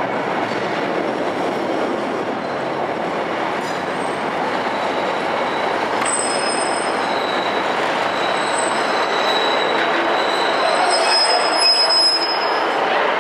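Class 150 Sprinter diesel multiple unit running along a curved station track, a steady diesel rumble, with high-pitched wheel squeal on the curve starting about halfway through.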